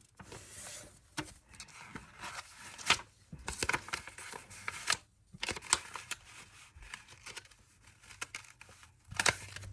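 A sheet of paper being handled and folded: scattered crinkles, rustles and sharp crackles as a corner is folded down and the crease pressed.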